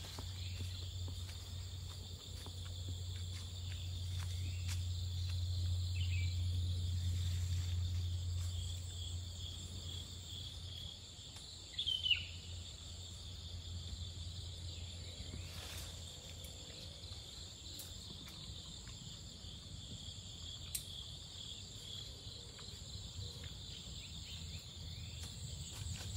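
Steady chorus of crickets and other insects, under a low rumble that swells over the first ten seconds and then fades. A short high call cuts through about twelve seconds in.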